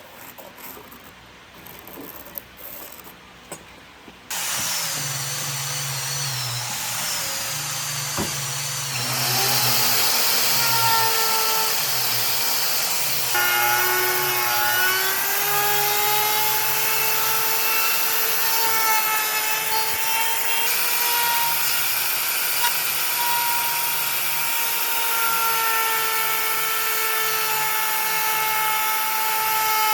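A few light knocks, then about four seconds in an electric power tool starts up, running with a whine that shifts in pitch as it works the wood.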